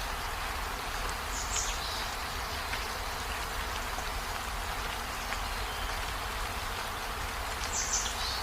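Steady rain falling, an even hiss of drops. Two brief high-pitched chirps sound over it, about a second and a half in and again near the end.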